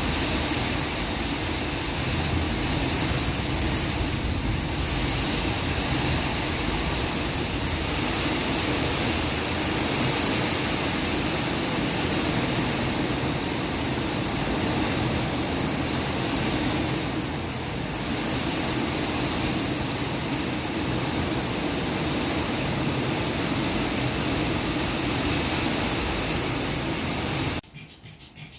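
Storm wind and heavy rain making a steady, loud rushing noise, which cuts off abruptly near the end.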